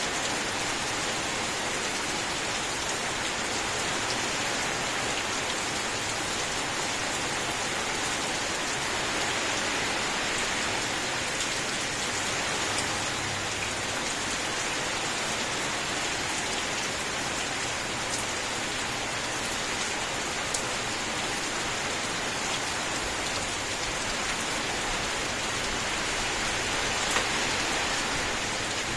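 Steady rain falling on a surface: a dense, even hiss with a few louder single drop taps scattered through it.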